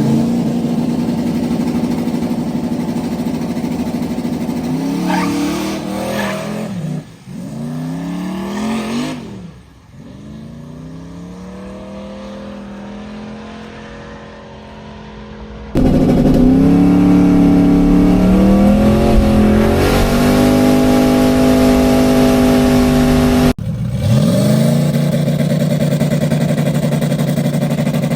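Car engines revving and running hard, their pitch climbing and dropping several times. The sound changes abruptly about 16 s and 24 s in, as separate clips are cut together.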